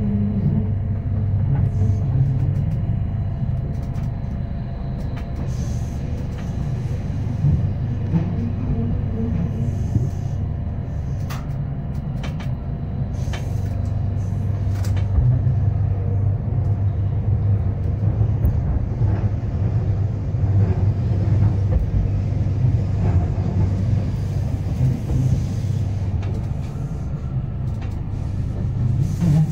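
Running noise heard inside a Rhaetian Railway metre-gauge passenger coach in motion: a steady low rumble of wheels on the rails, with scattered sharp clicks from the track.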